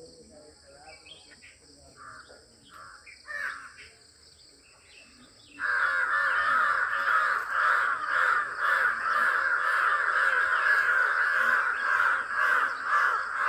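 Harsh, crow-like bird calls: a few faint separate calls at first, then about five and a half seconds in a much louder, dense stream of rapidly repeated calls starts and keeps going.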